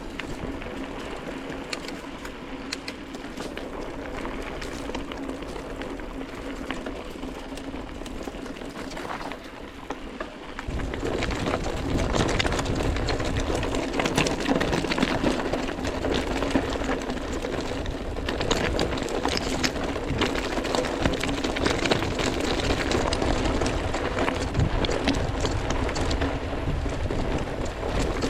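Mountain bike rolling over a stony forest road: tyres crunching and rattling on rocks with wind noise, getting clearly louder about ten seconds in.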